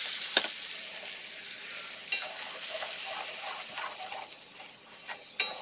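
Ground chili paste for sambal sizzling in hot oil in an aluminium wok, the sizzle gradually dying down. A spatula scrapes and clicks against the wok several times, most sharply near the end.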